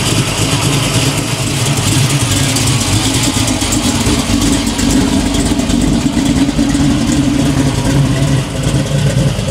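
V8 muscle car engine running steadily at low revs, a little louder in the middle.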